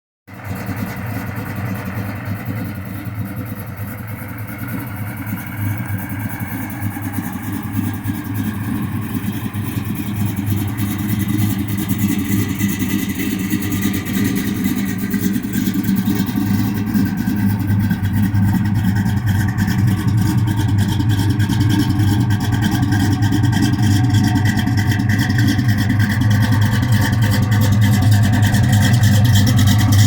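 1969 Chevelle's built 350 small-block V8 idling rough, a steady, deep running sound that grows gradually louder.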